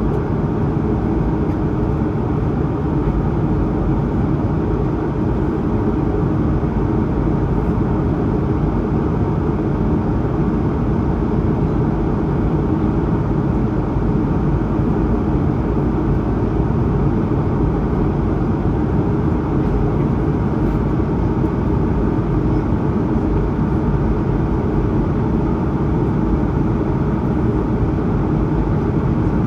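Steady cabin noise of an Airbus A220-100 in its climb: the rush of airflow and the drone of its Pratt & Whitney PW1500G geared turbofans, heard from inside the passenger cabin, deep and even with a faint steady tone above it.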